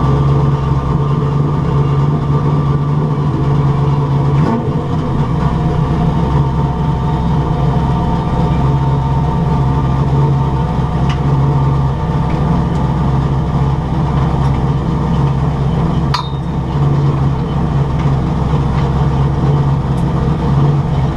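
Carbureted engine with a rear-mounted turbo idling steadily.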